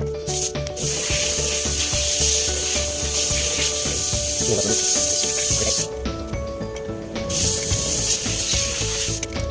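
Two long bursts of spraying hiss, the first about five seconds long and the second about two, over background music.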